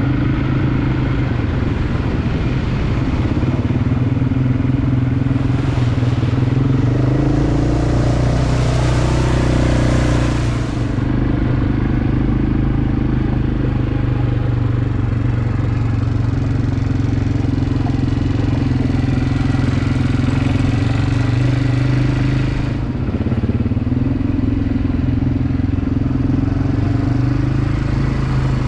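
Quad bike (ATV) engine running under way, its pitch shifting up and down with the throttle, with a stretch of rougher noise and a rising rev about a third of the way in.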